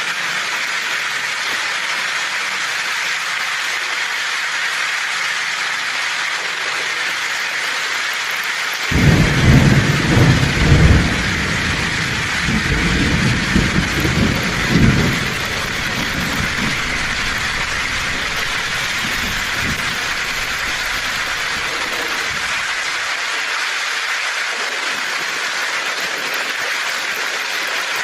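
Heavy rain on a tin roof, a steady hiss throughout. About nine seconds in, thunder breaks in suddenly, loudest for the first couple of seconds, then rumbles on and fades away over roughly ten more seconds.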